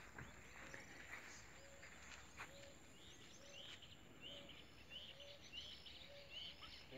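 Faint birdsong over quiet outdoor background: a bird repeating short, high chirps about twice a second.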